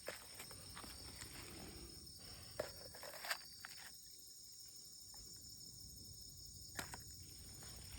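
Insects trilling steadily in a high, even drone, with a few faint clicks and taps.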